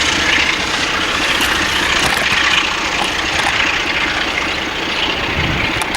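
Freight train loaded with stone rolling past, a steady rumble of wheels on rail that eases slightly after a few seconds.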